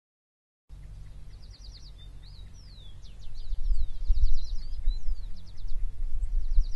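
Silent at first, then birds calling: quick trills and sweeping whistled notes. Under them runs a low, fluctuating rumble that grows louder about three seconds in.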